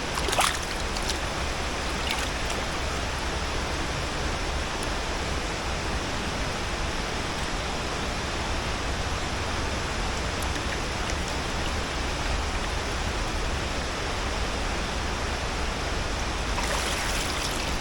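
A river rushing steadily, an even wash of flowing water with a brief knock about half a second in.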